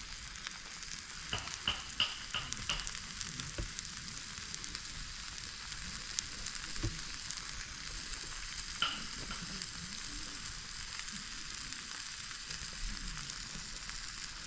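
Food sizzling steadily in a hot pan or on a grill, with a few light metal clinks, as of tongs or utensils, in the first few seconds and once more later.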